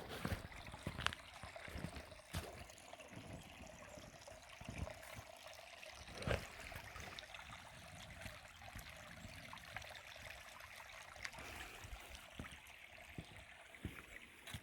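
Creek water flowing and trickling steadily, with a few soft knocks, the clearest about six seconds in.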